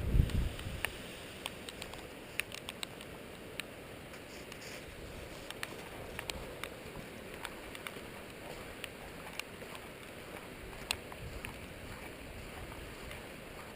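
Wind buffeting the microphone as a low rumble that dies away about half a second in, then a steady hiss of wind with scattered irregular ticks of raindrops.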